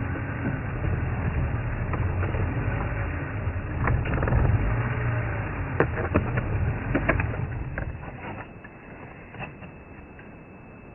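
Safari vehicle's engine running with a low rumble that dies away about eight seconds in, with a handful of sharp snaps and cracks in the middle.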